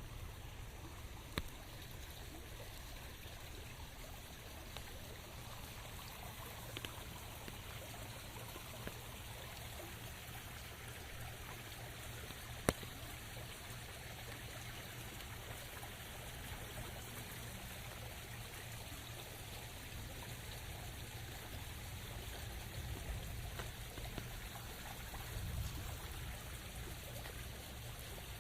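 Steady rain with trickling, running water: a continuous even hiss over a low steady rumble, with a few sharp single drip clicks, the loudest one about halfway through.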